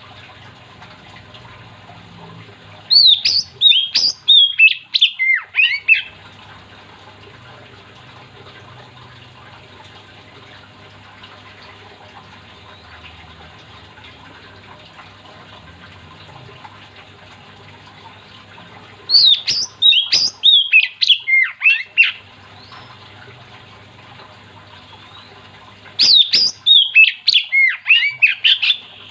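Oriental magpie-robin singing: three loud phrases of about three seconds each, made of rapid whistled notes that slide downward, with long pauses between, over a faint steady hum.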